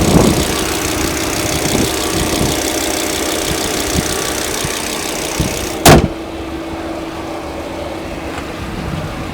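Turbocharged 2.5-litre five-cylinder engine of a 2009 Volvo S60 2.5T idling steadily. About six seconds in there is a single loud thump, after which the engine sounds duller and more muffled.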